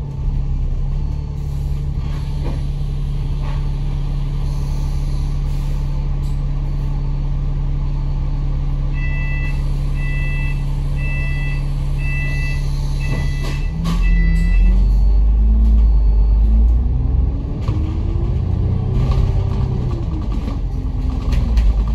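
A bus diesel engine idling steadily, heard from on board, with a run of about seven evenly spaced two-tone electronic beeps partway through. About two-thirds of the way in, the engine gets louder and revs up, its pitch rising and then falling as the bus pulls away and accelerates.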